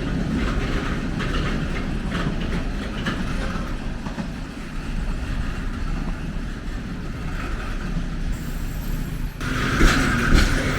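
A train running past on the track: a steady low rumble with wheels clicking over the rail joints. It grows louder and sharper about nine seconds in.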